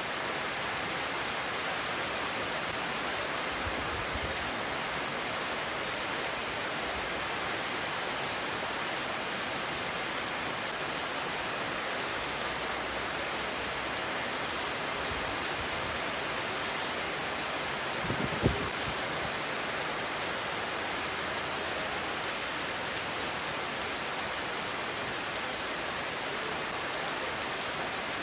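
Steady rain falling, an even hiss throughout, with a brief low thump about two-thirds of the way in.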